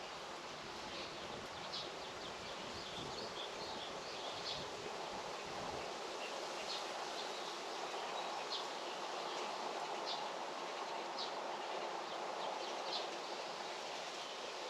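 Outdoor rural ambience: a steady rustling hiss with short, high bird chirps about once a second or so.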